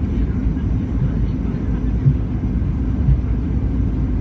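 Cabin noise of a Boeing 737 MAX 8 rolling on the ground after landing: a steady low rumble of its CFM LEAP-1B engines and the wheels, with two soft thumps about two and three seconds in.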